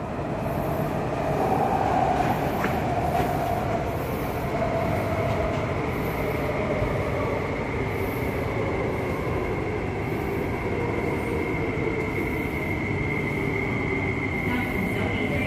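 MTR West Rail Line IKK electric train running through a station platform: a steady rumble of wheels on rail with a wavering mid-pitched motor tone, and a high steady whine that comes in and strengthens over the second half.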